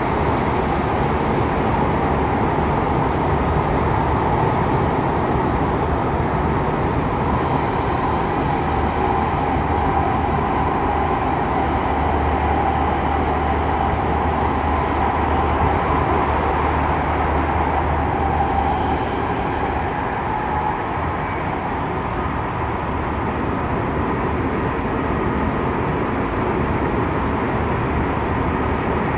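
Saitama Railway 2000 series electric train running, heard from inside the passenger car: a steady rumble of wheels and running gear with a low hum. A high whine thins out over the first couple of seconds, and the noise eases slightly about two-thirds of the way through.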